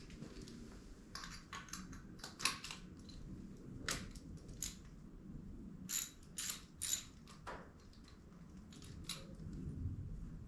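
Hand tools working on a small dirt-bike engine: irregular metallic clicks and clinks of a socket ratchet and tools while the spark plug is being taken out for a compression check.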